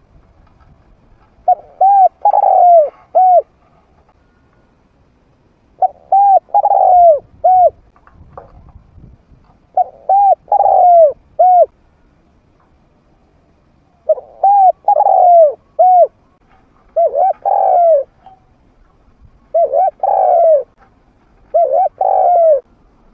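A trained spotted dove with a medium-pitched voice cooing. It sings phrases of three to five coos, repeated every few seconds, a call used as a lure for wild doves.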